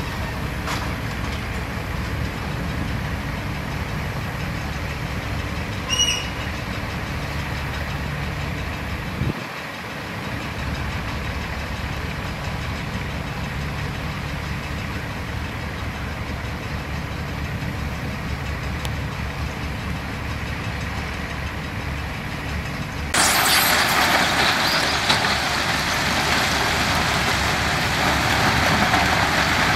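Diesel engines of heavy construction machinery running with a steady low rumble, with a single short beep about six seconds in. About 23 seconds in the sound switches abruptly to a louder, even rushing noise.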